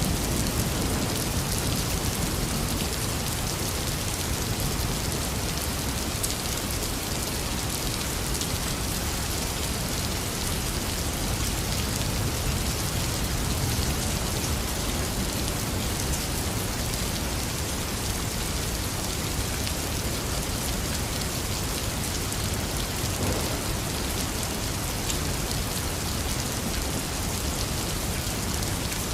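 Heavy rain falling steadily, a dense, even hiss of drops striking surfaces.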